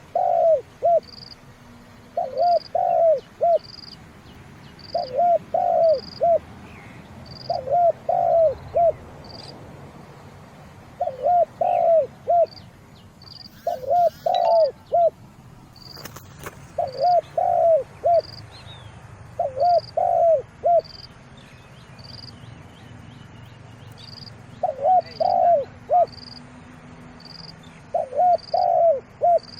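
Spotted dove cooing: about ten loud phrases of three or four low coos, repeated every two to three seconds with a longer pause past the middle. A thin, high chirp repeats about once a second behind it.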